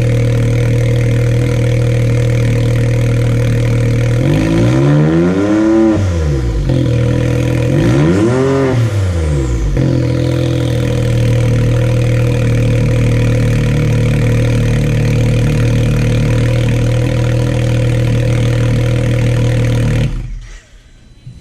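Can-Am Maverick X3's turbocharged three-cylinder engine idling through a custom bullet-muffler exhaust. It is blipped up in revs twice, each rise and fall lasting about two seconds, with a faint falling whistle after the second. The engine is shut off about twenty seconds in.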